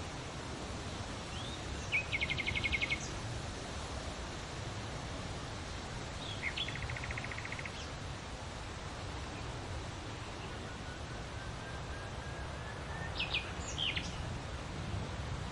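Birds calling over a steady noise of wind in leaves. There is a rapid trill about two seconds in, another around six seconds, a faint rising run of notes around ten seconds, and a few sharp chirps near the end.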